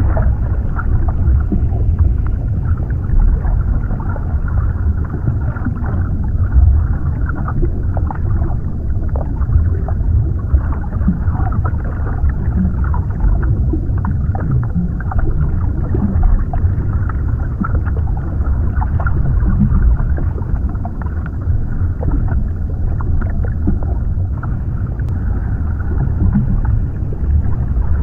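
Underwater ambience: a steady, deep low rumble of water with faint bubbling crackles scattered through it.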